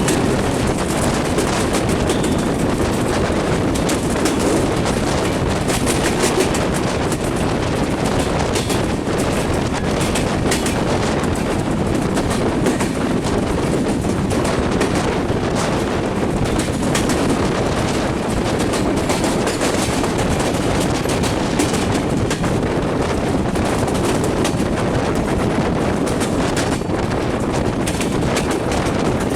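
Bangladesh Railway passenger train running at speed: a steady rumble of wheels on rails, with clicks from the wheels crossing the rail joints.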